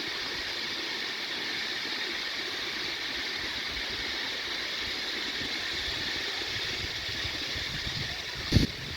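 Steady rush of water from a waterfall, with a brief thump near the end.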